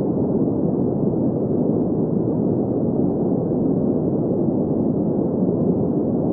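Green noise: a steady, unchanging synthetic noise weighted to the low-middle range, with no high hiss.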